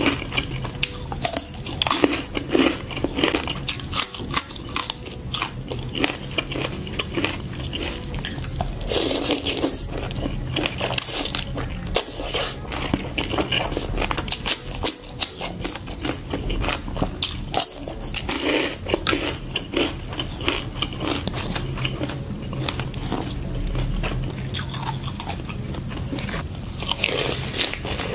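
Close-miked crunching and chewing as crispy pork stick and raw vegetables are bitten and chewed. Loud crunchy bites come in clusters every several seconds, with softer chewing between them.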